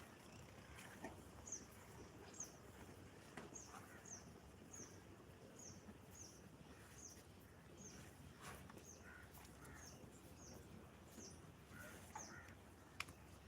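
A bird calling faintly, one short high chirp sliding down in pitch, repeated about twice a second, with a few faint knocks in between.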